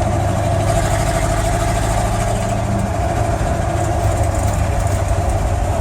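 Truck engine idling steadily, not yet warmed up, so it is not running at its normal idle.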